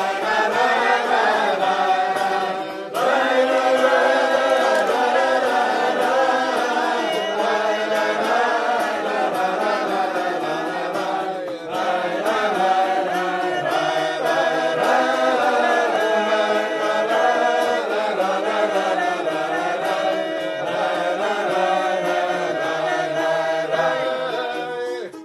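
Group of voices singing together in a sustained, chant-like melody with no clear words, over a steady held low note; it stops near the end.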